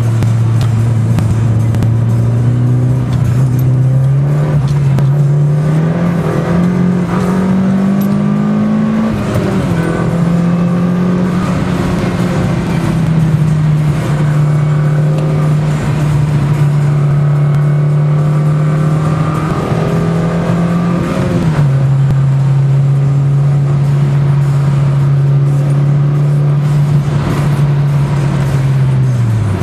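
Mitsubishi Lancer Evo IX's turbocharged four-cylinder engine heard from inside the car while driving: the engine note climbs for the first several seconds, drops sharply about nine seconds in at a gear change, then holds steady, with brief dips again around twenty-one seconds and at the very end.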